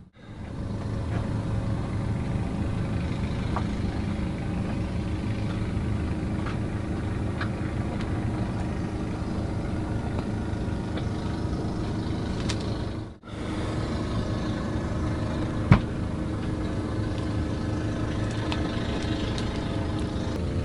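A steady engine-like drone with low pitched lines, and a few light clicks. There is one sharp knock about 16 seconds in, and the sound drops out briefly about 13 seconds in.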